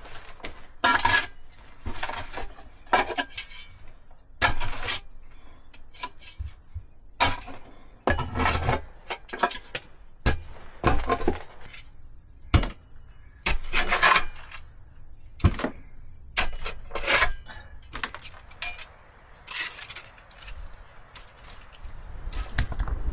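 Irregular clinks, knocks and scrapes of hard objects being handled and set down, several a second in places, some ringing briefly.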